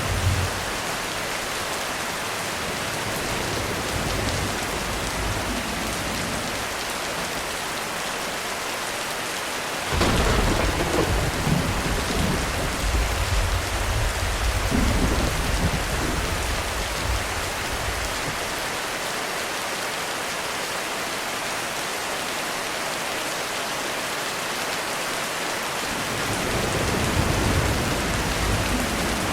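Heavy rain falling steadily on a roof, with a sudden clap of thunder about ten seconds in that rumbles on for several seconds, and another low roll of thunder building near the end.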